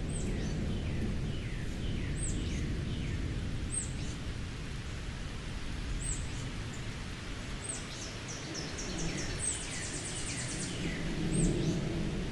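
Woodland birds singing: short high chirps repeated about every two seconds, with a quick run of notes near the end. Under them runs a low rumble of distant thunder that swells briefly near the end.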